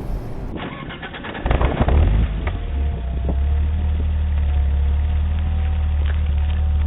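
BMW 325 coupe's straight-six engine starting about one and a half seconds in, then idling steadily with a deep, even hum.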